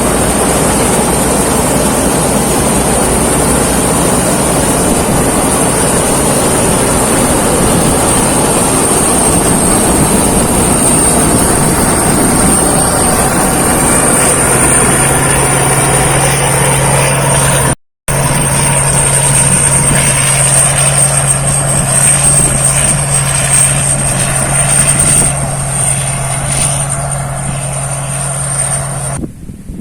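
Thai Seng Yont rice combine harvester running steadily while harvesting: a loud, constant engine and machinery drone with a high whine on top. The sound drops out for an instant about two-thirds of the way through.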